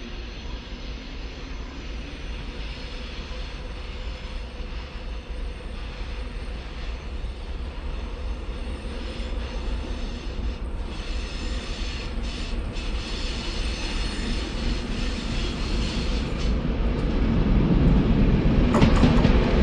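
A train approaching on the line. Its rumble grows steadily louder and swells sharply near the end as it draws close.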